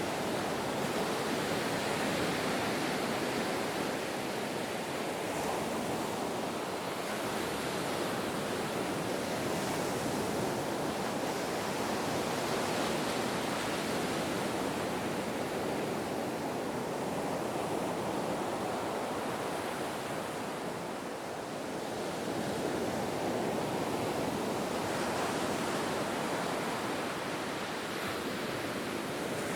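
Ocean surf: a continuous wash of breaking waves that slowly swells and eases, with a brief lull about two-thirds of the way through.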